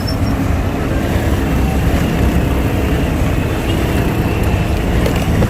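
Steady low rumble of riding on a motorcycle taxi in traffic: the motorbike's engine and road noise, with no break or change.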